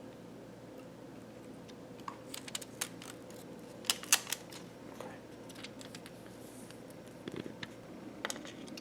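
Scattered light clicks and taps of small parts and tools being handled inside an opened laptop, in small clusters over a faint steady hum.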